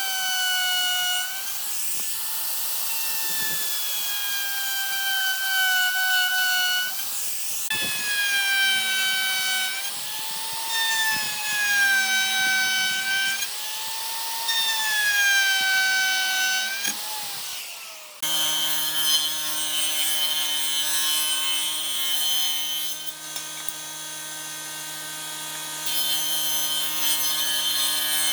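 Electric power tool cutting or shaping wood in repeated passes: its motor pitch sags under load and recovers every two to three seconds. About 18 seconds in, this gives way abruptly to a different steady machine hum.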